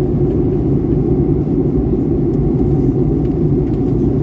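Steady low rumble of a Boeing 737-800 airliner cabin in flight during descent: jet engines and airflow over the fuselage, heard from inside the cabin.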